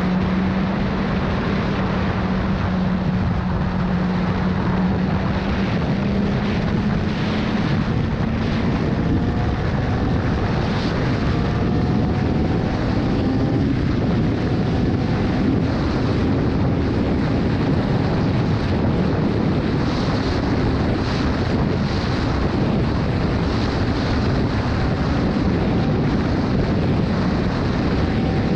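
Sport motorcycle engine running at highway speed, its note climbing slowly through the first ten seconds or so and then holding steady, under heavy wind noise on the microphone.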